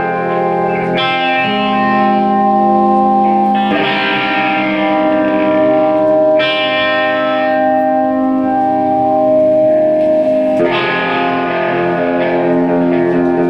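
Electric guitar through effects playing slow, ringing chords, a new chord struck every few seconds and left to sustain.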